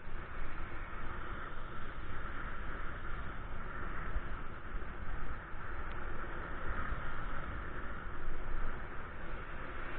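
Steady rushing wind and road noise while riding, with wind buffeting the microphone and a low rumble underneath.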